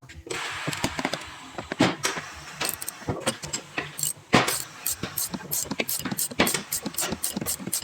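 Metal hand tools working on a stabilizer link: a rapid, uneven series of sharp clicks and clinks, getting denser and more regular over the last few seconds.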